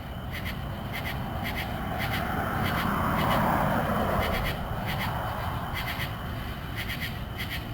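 Outdoor summer ambience: a run of short, high chirps repeating in quick pairs and groups, under a broad rushing sound that swells to a peak about three seconds in and then fades.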